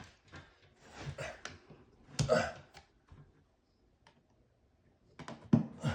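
Razor knife blade scoring the paper face of Sheetrock drywall: short scratchy strokes and clicks, with a cluster of sharp clicks near the end. A brief vocal sound comes about two seconds in.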